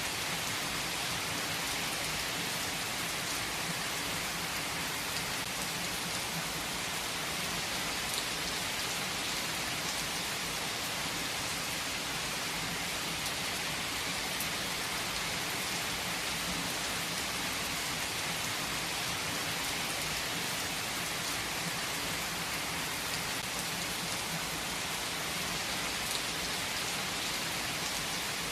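Steady heavy rain falling on surfaces, an even hiss with occasional sharper drop ticks.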